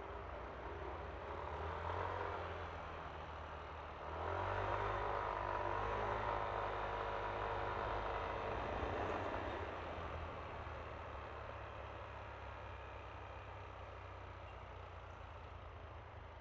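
Yamaha Aerox V3 scooter's single-cylinder engine running under way with road and wind noise; it gets louder about four seconds in and eases back down after about ten seconds.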